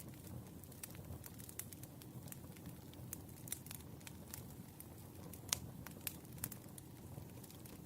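Firewood burning: a low rumble of flames with frequent, irregular small crackles and snaps. The sharpest pop comes about five and a half seconds in.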